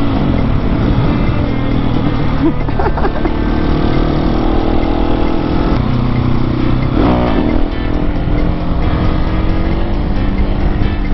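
Husqvarna 701 Supermoto's single-cylinder engine running as the bike rides along. The engine note dips and rises briefly about seven seconds in.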